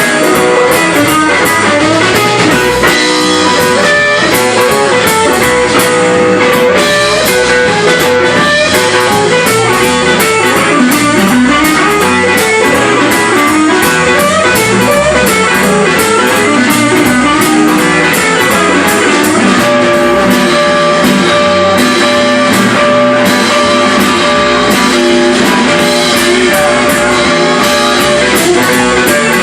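Live blues-rock band playing loudly, with electric guitar to the fore over drums; a long held note rings out for several seconds in the last third.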